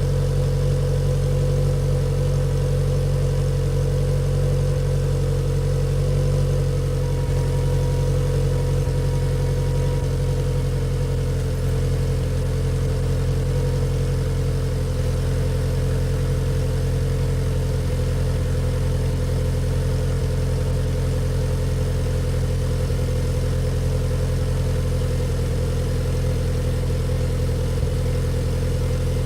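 Subaru STI's turbocharged flat-four, fitted with equal-length headers, idling steadily.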